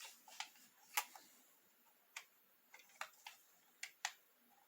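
Scattered light plastic clicks and taps, about eight short ones at uneven intervals, from handling the small RC toy truck and its controller after fitting the batteries.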